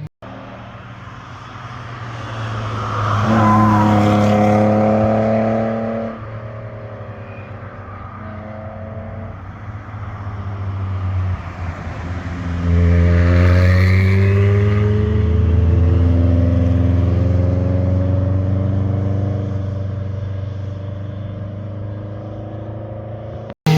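Performance cars driving past under hard acceleration, their engines and exhausts revving, with the pitch of the engine notes rising and falling through gear changes. One car is loud for a few seconds early on and cuts off abruptly; a louder pass follows from about halfway through.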